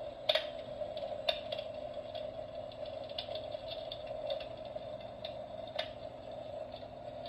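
Royal Flame Jupiter FX New electric fireplace insert running: a steady hum with scattered clicks and ticks, the loudest about a third of a second in, at about 1.3 s and near 6 s.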